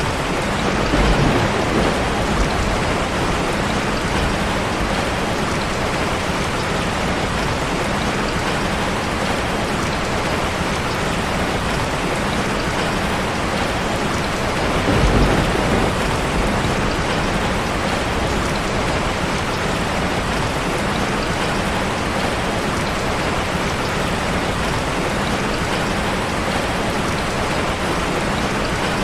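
Steady rain. Two brief low rumbles swell up, one about a second in and one about halfway through.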